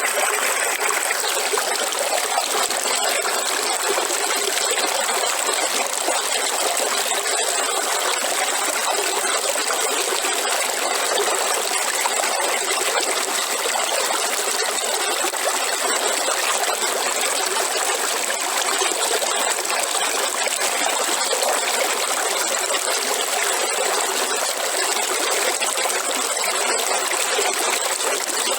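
River water flowing steadily, an even rushing sound with little deep rumble.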